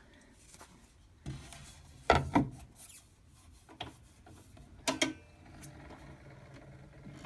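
Handling noises: a handful of separate knocks and soft rubs, the loudest pair about two seconds in and another about five seconds in, as a disc is swapped on the phonograph.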